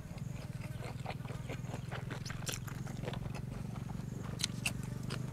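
Close-up chewing and crunching of blanched squid and raw vegetables: many short irregular crisp clicks, the sharpest about two and a half seconds in and twice near the end, over a steady low hum.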